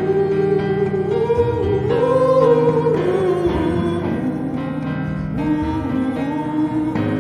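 Live performance of a spiritual: voices singing long held notes with vibrato over piano accompaniment.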